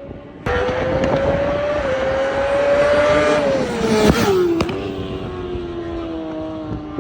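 1000cc sportbike engine running hard at high revs through its exhaust, starting abruptly. Its pitch climbs slowly, drops sharply about four seconds in, then sinks gradually as the sound fades a little.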